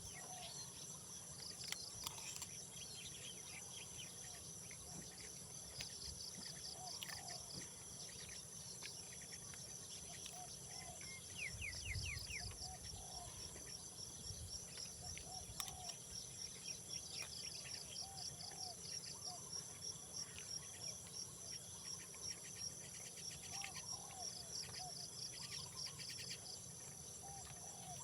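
A faint outdoor chorus of insects such as crickets, trilling steadily in high tones with rapid repeated chirps, and short calls of other animals lower down. A brief low rumble comes about twelve seconds in.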